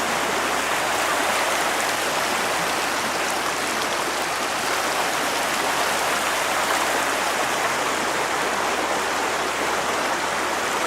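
A small river's water running over stones, a steady even rushing.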